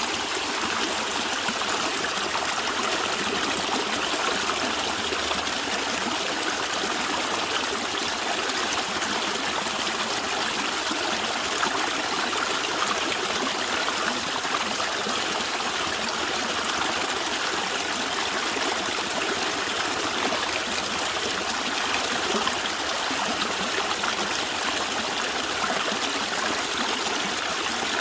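A stream of water running and gurgling steadily over rocks.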